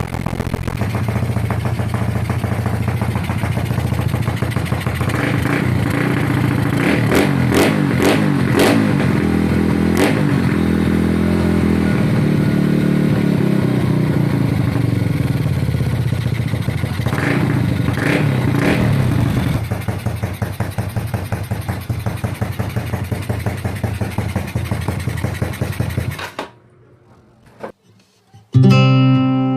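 Yamaha X1 motorcycle engine, bored up to 150cc, running at idle and revved in short blips several times. It cuts off a few seconds before the end, and guitar music comes in near the end.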